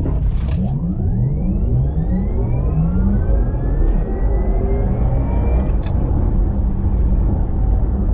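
Porsche Taycan 4S electric drivetrain accelerating: a whine of several tones rising steadily in pitch and levelling off near the end, over a steady low rumble.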